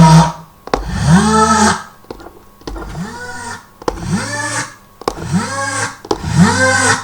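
A sampled preset on a Roland M-DC-1 sound module, struck from drum pads about once a second. Each hit is a short, raspy note whose pitch rises and then falls, with the tap of the pad audible at each strike.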